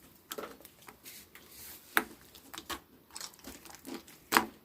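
Slime being squished and stretched by hand, giving irregular sticky pops and crackles, with a sharper pop about two seconds in and the loudest one near the end.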